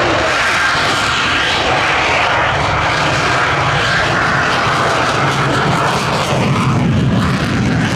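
Jet-powered drag truck's jet engines running at full power, a loud steady roar as it launches on afterburners; a deeper rumble builds from about six seconds in.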